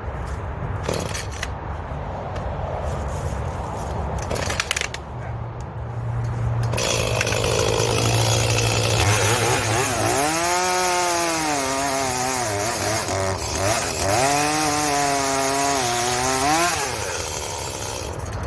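Two-stroke chainsaw idling, then revved to full throttle at about seven seconds and cutting wood. Its engine pitch sags and recovers twice under the load of the cut, then drops back toward idle near the end.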